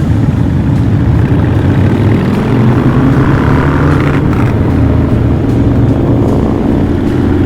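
Harley-Davidson Night Train V-twin motorcycles with loud exhausts running steadily at cruising speed on the road.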